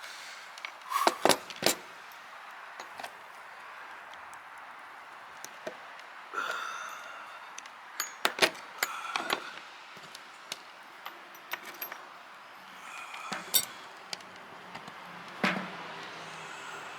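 Sharp metal clicks and clinks of small steel parts and hand tools as C-clips are being fitted back on, in scattered bunches with short ringing after some strikes.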